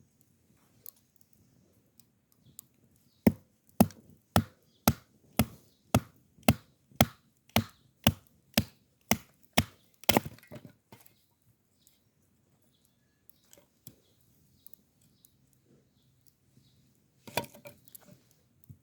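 Firewood being chopped with a steady run of about fourteen sharp strikes, roughly two a second, followed after a pause by a short burst of cracking near the end.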